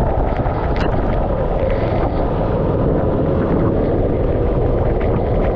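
Go-kart engine running steadily under a dense rush of wind and spray noise.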